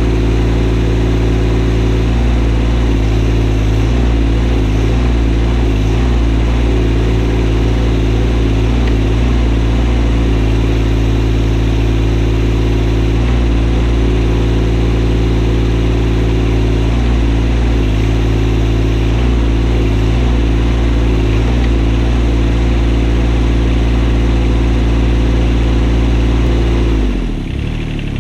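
Kymron XH20D mini excavator's diesel engine running steadily at about 2,000 RPM, the note wavering slightly while the hydraulic boom is worked. At this speed the boom moves jerkily. Near the end the engine note falls as the engine is throttled down.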